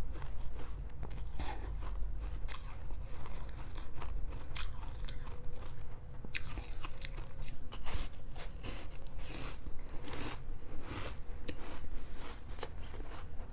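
A person biting into ice and chewing it, a run of sharp, irregular crunches with crackling between bites.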